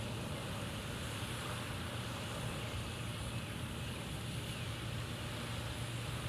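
Steady low rumble with a faint hiss above it: outdoor background noise that holds at one level, with no distinct events.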